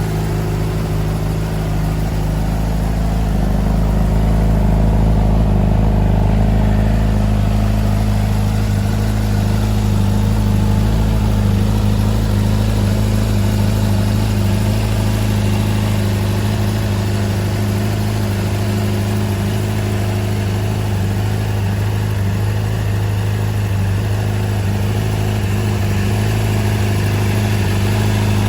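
Honda CBR600RR's inline-four engine idling steadily, a little louder for a few seconds about four seconds in.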